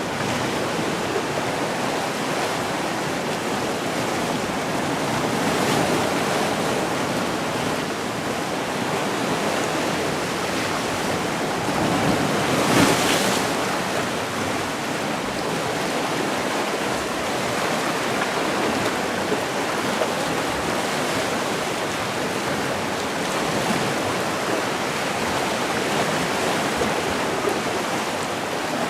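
Sea surf: waves washing steadily onto the shore in gentle swells, with one louder wave breaking about halfway through.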